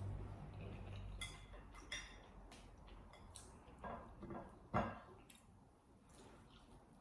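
Eating sounds at a close microphone: wet chewing at first, then chopsticks clicking and tapping against a dish several times, with one louder knock a little past halfway.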